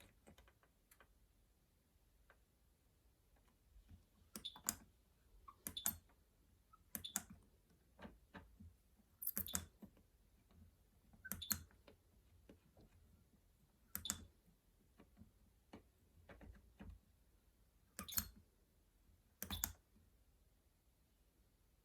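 Clicks from the controls of a Miele Navitronic W3985 washing machine being operated to choose a wash program: about a dozen short clicks, one to two seconds apart, starting about four seconds in.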